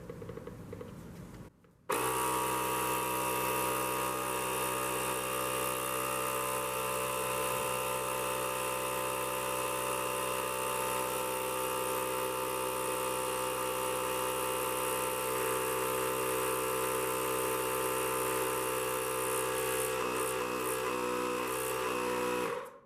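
Milwaukee cordless tire inflator's motor-driven compressor switched on about two seconds in, running with a steady even hum for about twenty seconds, then switched off just before the end.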